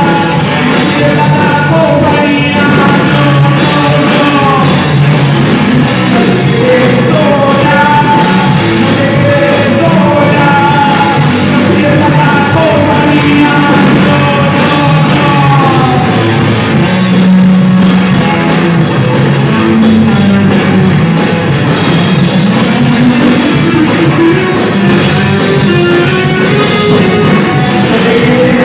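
A rock band playing loudly and without a break, with a singer carrying the melody over guitars, bass and drums.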